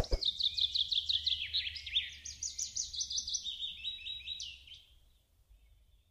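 A songbird singing: fast runs of high chirps and trills for about five seconds, opening with a short thump.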